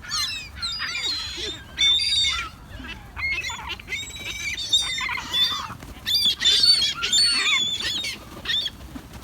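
A flock of seagulls calling and squawking as they crowd in for bread, many harsh overlapping calls one after another.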